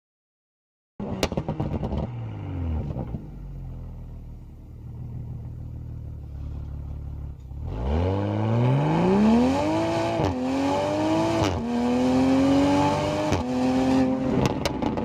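Toyota Supra's turbocharged straight-six accelerating hard through the gears. After about a second of silence the engine note drops and holds low and steady, then from about halfway it climbs steeply, with a quick fall in pitch at each of three upshifts.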